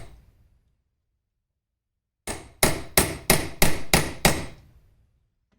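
Hammer blows on a metal punch peening over a small rivet held against a vise: after a pause, seven quick ringing strikes about three a second, the rivet end beginning to mushroom.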